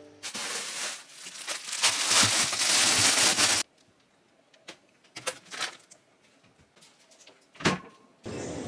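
Plastic packaging rustling and crinkling for about three seconds, then a few light taps and clicks.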